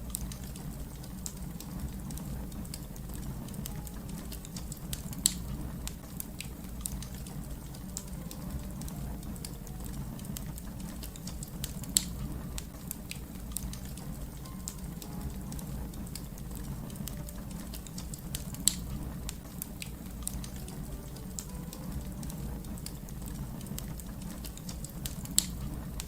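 Fire crackling steadily over a low rumble, with many small ticks and four louder, sharp pops about seven seconds apart.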